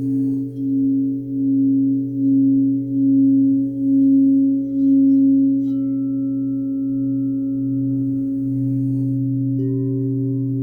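Crystal singing bowls ringing together in long sustained tones. One tone swells and fades about once a second for the first half, then all ring steadily, and a further higher bowl tone joins near the end.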